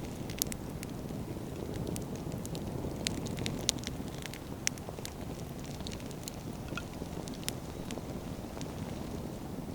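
Wood fire burning: a steady low rush with scattered crackles and several sharp pops of burning firewood, the loudest about three and a half seconds in.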